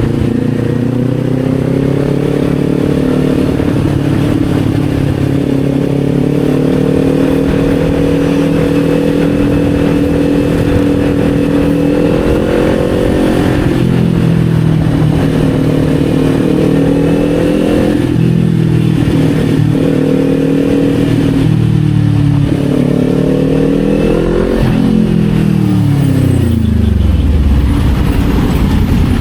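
Kawasaki Z400 parallel-twin engine running on the road: its pitch climbs over the first few seconds, holds steady, shifts up and down several times in the middle, then falls steadily over the last few seconds as the bike slows.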